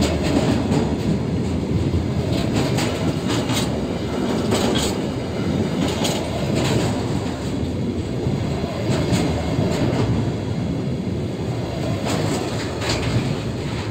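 A freight train's wagons rolling past: a steady rumble, with the wheels clicking irregularly over the rail joints.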